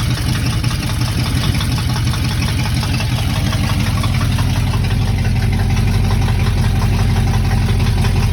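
Chevrolet small-block 350 V8 of a 1980 Chevy K30 pickup idling steadily.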